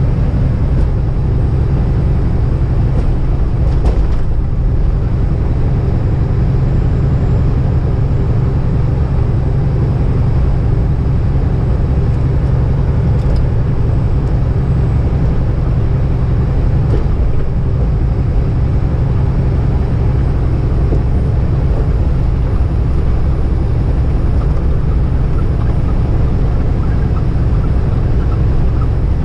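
A semi truck's diesel engine and tyre noise, heard inside the cab while cruising at steady highway speed. It is a constant low drone that does not change.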